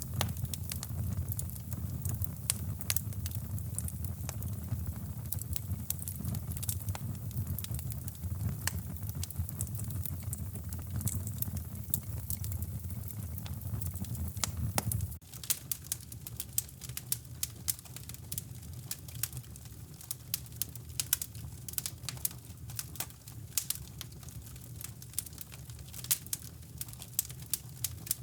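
Wood fire crackling in a fireplace, with sharp pops scattered throughout, over a steady low rumble of brown noise that drops in level about halfway through.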